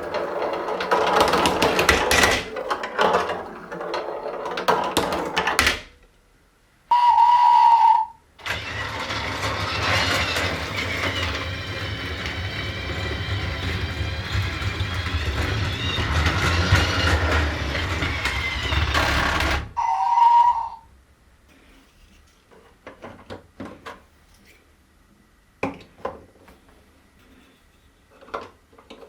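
Plastic toy marbles clattering through a marble run, then a short beep, a long steady passage with a low hum, another short beep, and scattered marble clicks near the end.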